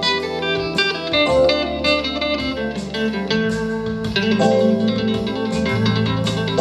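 Live band playing an instrumental passage of a jazz-blues song, guitar to the fore over a bass line, with sharp regular strokes keeping time.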